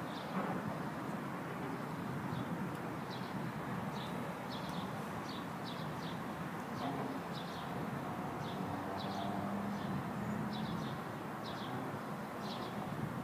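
Steady rain falling, with a bird chirping repeatedly in short, high notes.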